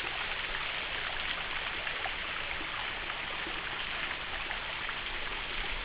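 Small waterfall trickling and splashing over rock shelves, a steady even rush of falling water. The fall is running low, with little flow.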